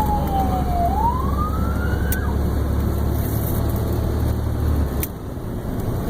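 Fire engine's siren in a slow wail, falling and then rising once before it is switched off about two seconds in, as the engine drops to a non-emergency response. The truck's engine runs underneath, heard from inside the cab, and its rumble falls away with a click about five seconds in.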